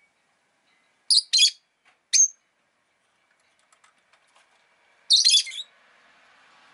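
Rosy-faced lovebird giving short, sharp, high-pitched chirps: two in quick succession about a second in, one more a moment later, then a rapid cluster of chirps about five seconds in.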